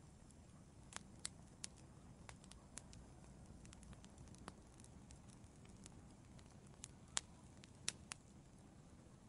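Wood fire in an outdoor fireplace crackling softly, with scattered sharp pops at irregular intervals over a low hiss, a few louder pops about a second in and again after about seven seconds.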